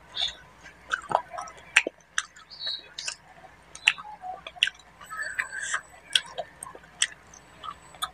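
Close-miked chewing, with wet lip smacks and sharp mouth clicks, as someone eats rice and fish curry with the fingers. The smacks come irregularly, often more than once a second.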